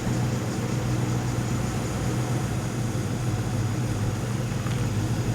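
A 4WD's engine running steadily at low revs as it crawls the track, a constant low hum with no revving.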